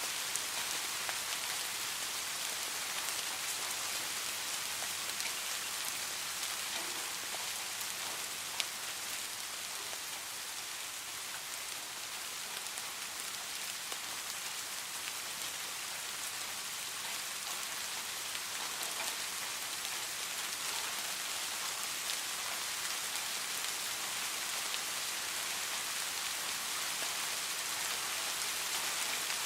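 Steady rain falling, an even hiss with scattered small drop ticks and one sharper drop tick about eight and a half seconds in.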